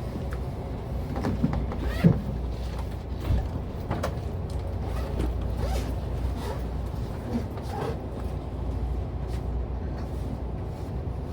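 Interior of a JR Central 383 series limited express car: a steady low rumble, with scattered short creaks and clicks from the car body and fittings.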